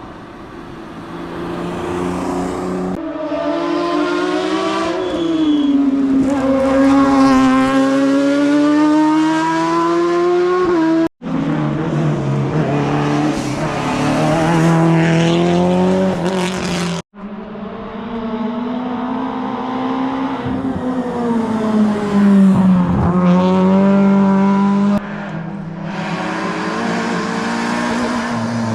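Rally cars on a hillclimb stage, passing one after another at full attack, their engines revving hard and dropping in pitch at each gear change. Abrupt cuts twice, about 11 and 17 seconds in, split the run into separate passes.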